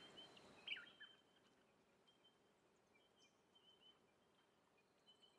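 Near silence, with a few faint, short bird-like chirps in the first second.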